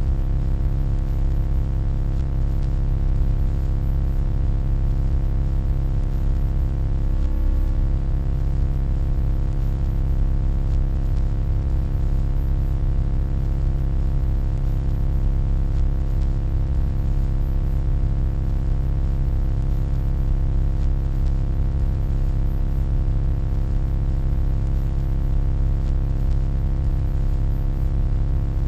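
Steady electronic hum: a deep, even low rumble with a stack of constant buzzing tones above it, unchanging throughout. A faint brief warble rises out of it about seven seconds in.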